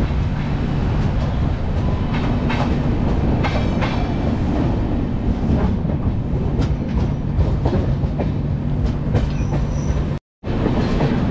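AC double-decker express train running, heard at an open coach doorway: a steady low rumble and hum with wheels clacking over the rails as it pulls away from a station platform. The sound cuts out briefly near the end.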